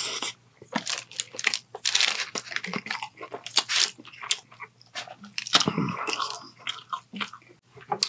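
Close-miked chewing of a mouthful of a dipped sandwich: irregular wet smacks and clicks of the mouth working the bread and meat.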